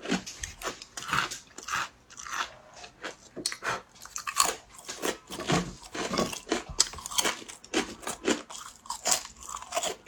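Chewing hard, crisp fried rice crackers (guoba) seasoned with Sichuan pepper powder. It is a run of loud, crackling crunches, about two a second, close to the mic.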